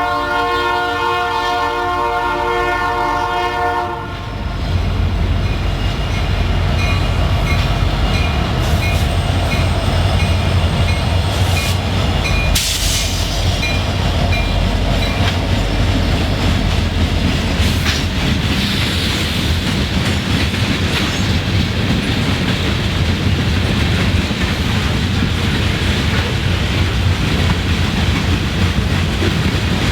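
Horn of a lead EMD SD70 diesel locomotive sounding a steady chord, cut off about four seconds in. Then two SD70 locomotives and their freight train pass close by, with a heavy low engine rumble and the clickety-clack of wheels over the rails, and one sharp knock partway through.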